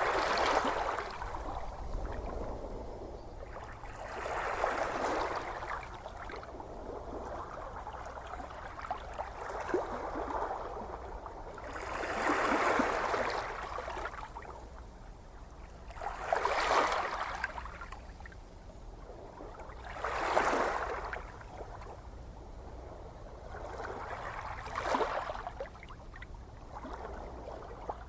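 Gentle ocean waves washing onto the shore, each wave swelling up and fading away, one about every four seconds, over a steady low rumble of surf.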